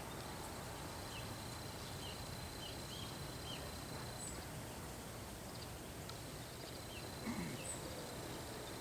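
Outdoor background noise with short, high bird chirps scattered through, about nine in all. A faint steady high tone runs under them, and a brief low sound rises about seven seconds in.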